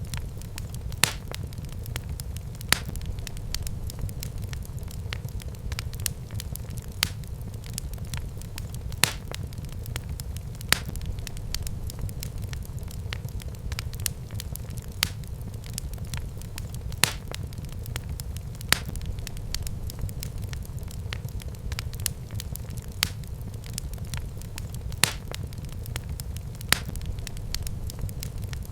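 Wood fire burning in a fireplace: a steady low rumble of flames with constant crackling and a louder sharp pop every couple of seconds.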